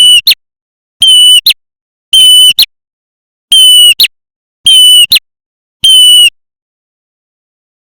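Looped lure recording of a prenjak (red-headed 'prenjak merah') call, repeated six times at about one a second: each a loud, steady high note with a short, sharp second note right after it. The calls stop for the last second and a half or so.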